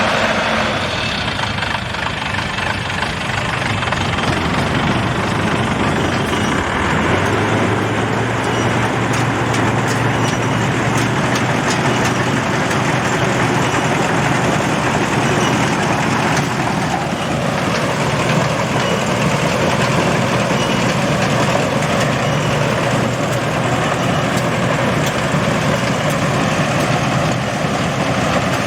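Combine harvester running steadily, a continuous heavy engine and machinery noise, with a low steady hum coming in about seven seconds in.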